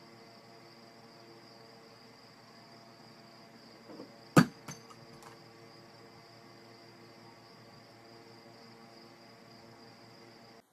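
A single sharp knock about four seconds in, with two softer knocks just before it and a few light clicks after. Under it runs a steady, faint, high-pitched whine.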